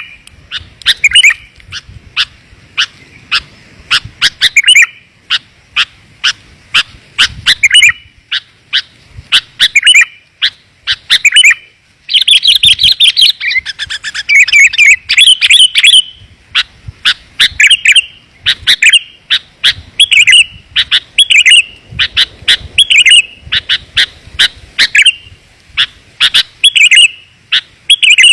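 Sooty-headed bulbul (kutilang) lure call: sharp chip notes and short bright phrases repeated about every second, with a longer, denser run of chatter about twelve seconds in.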